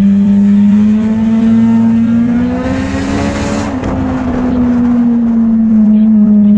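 Motorcycle engine running at a steady cruise, its pitch climbing slightly and then easing off. A brief rush of noise comes about three seconds in.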